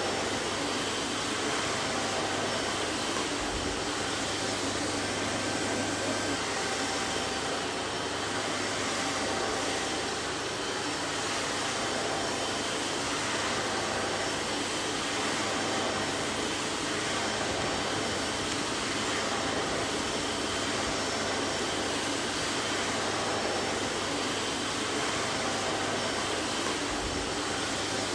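Vacuum cleaner running steadily, a continuous even rushing noise with a faint motor hum and no changes.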